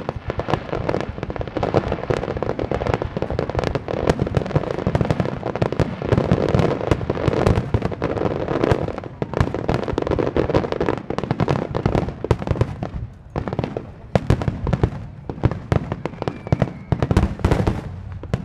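Fireworks display: a dense barrage of shell bursts, with many sharp bangs overlapping almost continuously. About two-thirds of the way through it thins out to fewer, separate bangs, then builds up again.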